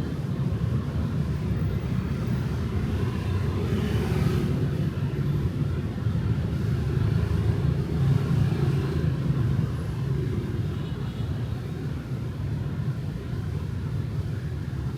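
Street traffic of motorbikes and cars: a continuous low rumble that swells a little about four seconds in and again around eight seconds, as vehicles pass.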